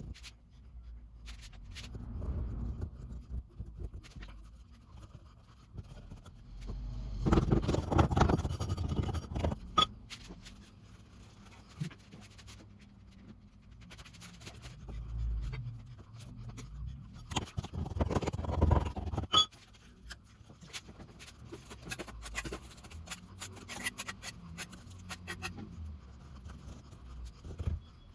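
Masonry work with mortar and stone: a trowel scraping mortar, with scattered clicks and knocks. There are two louder scraping spells of a couple of seconds each, about a quarter and two thirds of the way through.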